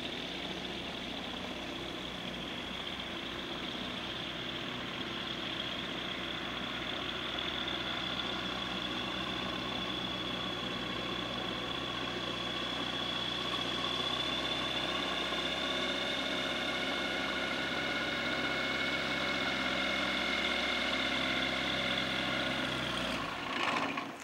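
Light aircraft's piston engine running steadily, slowly growing louder, with a high whine held at one pitch over the engine's hum.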